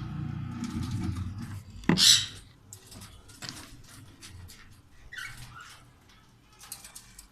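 Cockatiels calling in short chirps, the loudest a single sharp call about two seconds in, among light clicks and scratching. A low hum runs underneath for the first two seconds, then stops.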